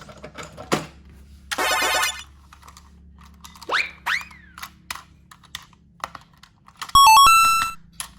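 Cartoon-style sound effects: a short buzzing tone, two quick rising whistle-like sweeps, scattered clicks, and near the end a brief run of electronic beeps.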